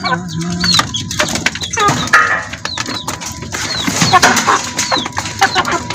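Chickens with their chicks: repeated short, high, falling peeps, a few lower hen calls and scattered clicks and rustles.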